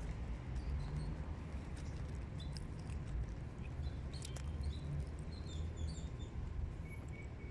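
Small birds chirping in short, high notes, mostly between about two and six and a half seconds in, over a steady low rumble.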